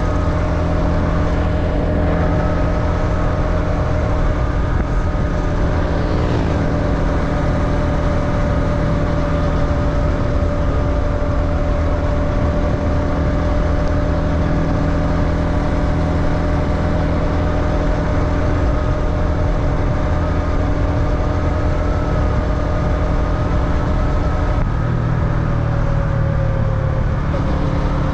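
Motorbike engine running steadily at a constant pitch while riding. The note dips briefly about six seconds in, then drops slightly a few seconds before the end.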